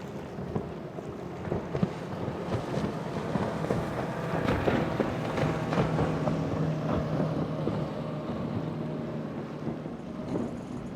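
Motorboat engine running under wind buffeting the microphone and the wash of water, with a steady low engine hum strongest around the middle.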